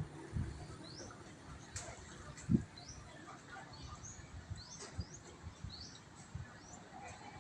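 Small birds chirping: a run of short, high, rising chirps repeated every half second or so, over a low rumble with scattered dull thumps, the loudest about two and a half seconds in.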